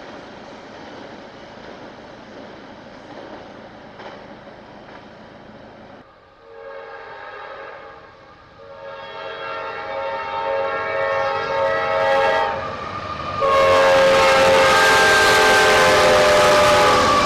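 A steady distant rumble, then about six seconds in a locomotive's multi-chime air horn begins sounding for the grade crossing in several long blasts, growing louder as the train approaches. About thirteen seconds in the horn is at its loudest and the rush of the arriving train joins it.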